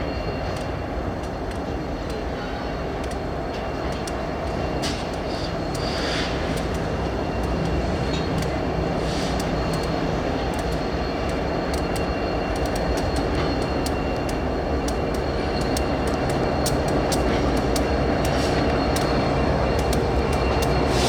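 Diesel freight locomotives running as the train moves along the track, a steady low rumble that slowly grows louder, with many sharp clicks from the wheels on the rails and a thin steady high-pitched wheel squeal.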